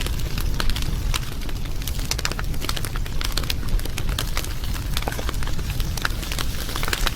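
Wood fire crackling: many quick sharp snaps at irregular intervals over a steady low rumble of burning.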